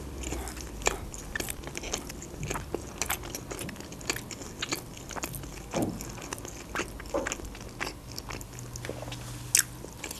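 A person chewing Turkish flatbread: a steady run of short, wet mouth clicks and smacks, with one sharper click near the end.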